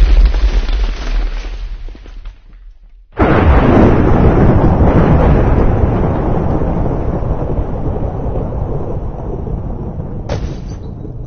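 Explosions: the tail of one blast fades out, then a second sudden blast about three seconds in is followed by a long rumble that slowly dies away. A brief sharp crack comes near the end.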